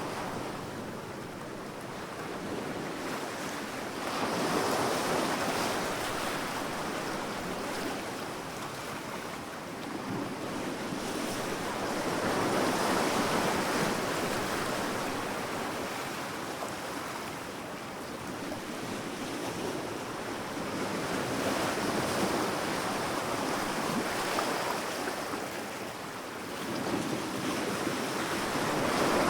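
Sea waves breaking on a sandy beach: a steady wash of surf that swells and ebbs about four times, roughly every eight seconds.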